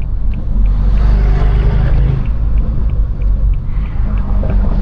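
Straight-piped BMW 428i's turbocharged four-cylinder exhaust droning at low revs while cruising, heard from the cabin. The engine note holds steady, then shifts about two seconds in.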